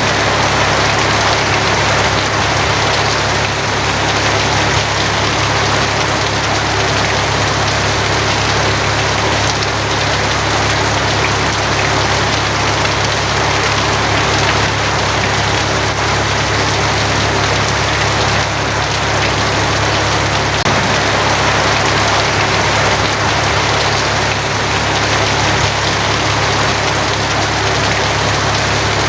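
Steady, heavy rain drumming on a tin roof, a dense even patter with no single drops standing out, over a continuous low rumble.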